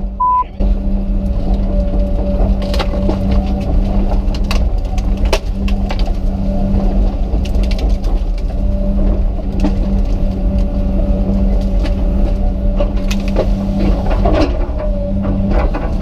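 Komatsu PC200 excavator's diesel engine running steadily while the machine breaks up a felled tree, with frequent sharp cracks and snaps of wood.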